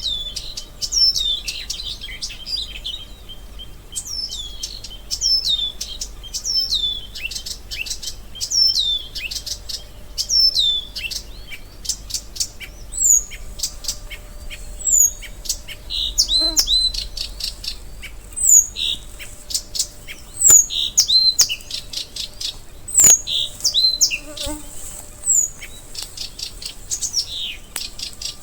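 Small birds chirping and twittering continuously, many short high falling chirps overlapping, with a faint insect buzz now and then.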